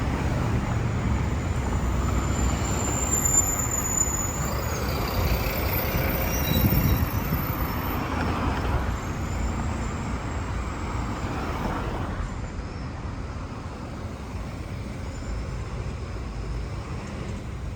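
City street traffic passing, with heavier vehicles such as buses or trucks among the cars. A thin high-pitched squeal comes in briefly about three seconds in, with fainter whines over the next few seconds. The traffic noise eases somewhat after about twelve seconds.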